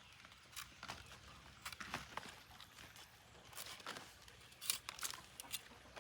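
Irregular rustling and crinkling with scattered small clicks and crackles, a cluster of sharper ones a little past the middle.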